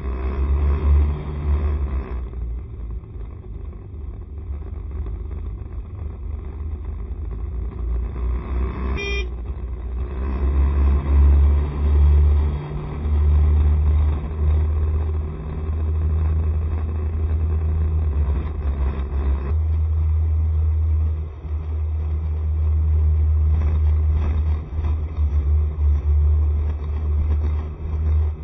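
Wind rumble and road noise from riding a Honda SCR110 scooter through traffic, with a brief vehicle horn about nine seconds in.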